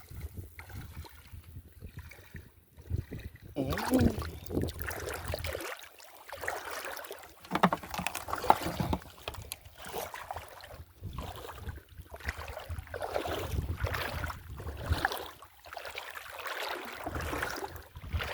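Water sloshing and splashing irregularly as someone wades through shallow seawater.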